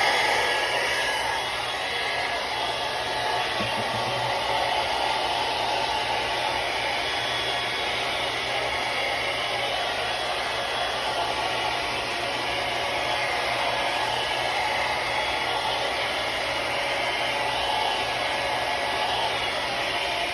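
Remington hair dryer running steadily, its fan and airflow making an even rushing whoosh with a faint steady hum.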